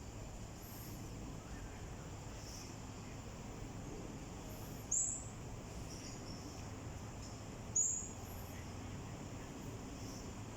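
Blue-crowned hanging parrots calling: two sharp, high-pitched short calls about three seconds apart, with fainter high notes between them.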